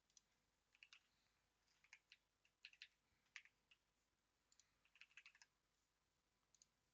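Faint typing on a computer keyboard: keystrokes in short, irregular clusters with pauses between.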